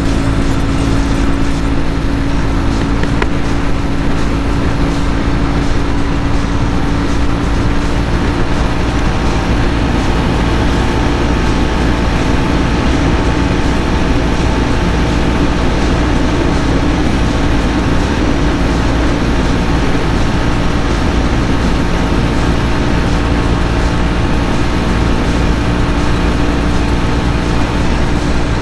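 Jawa 42 BS6's 293 cc single-cylinder engine running flat out at a steady high pitch through its stock exhaust, the motorcycle holding close to its top speed of about 120-130 km/h.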